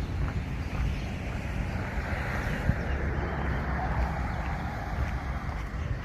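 Outdoor ambience: wind buffeting the microphone with an uneven low rumble over a steady rushing hiss.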